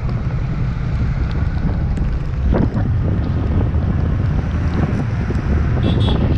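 Wind buffeting the microphone on a moving motorcycle: a loud, steady low rumble with a hiss above it.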